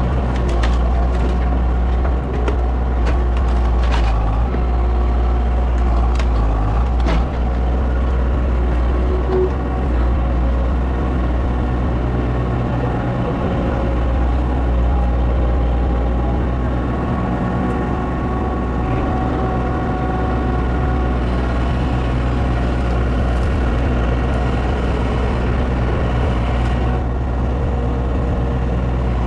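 A heavy engine running steadily at an even speed, with a few sharp clicks or knocks in the first several seconds.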